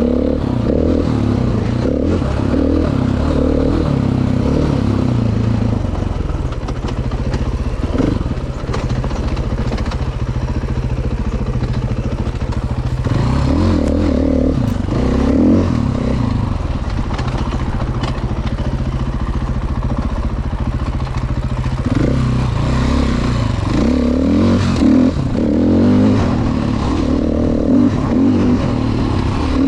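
Dirt bike engine running continuously, its pitch rising and falling as the throttle is worked, busiest about halfway through and again near the end.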